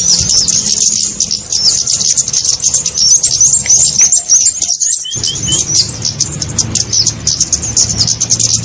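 Bird-lure recording of small birds' chirping (kemade), a dense, fast stream of high-pitched chirps with no pause except a brief break about five seconds in, where three short lower chirps sound. A low steady hum runs underneath.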